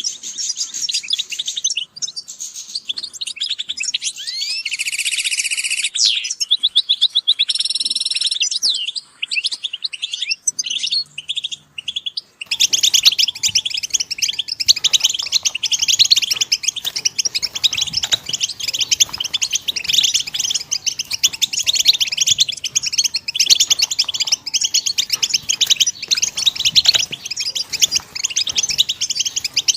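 European goldfinches singing: rapid twittering, tinkling song high in pitch. About twelve seconds in it switches abruptly to a denser, continuous chorus of several birds.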